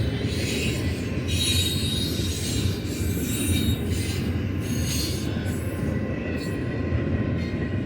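Freight train cars rolling past with a steady low rumble and a thin high-pitched squeal from the wheels.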